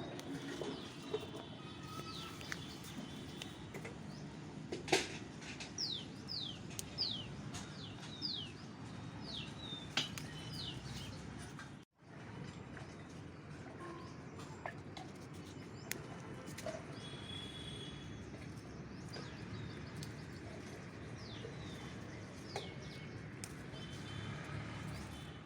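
Small birds chirping: runs of short, quick, downward-sliding high calls over a steady low outdoor hum. The sound cuts out briefly about halfway through.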